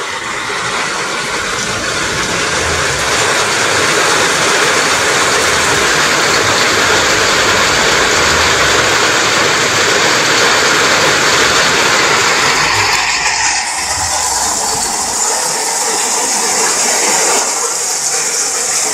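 Steady, loud rushing of water close to the microphone, with a change in tone about two-thirds of the way through.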